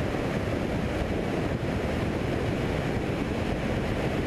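Steady cabin noise of a Cessna 172 in flight: engine and airflow blended into an even roar.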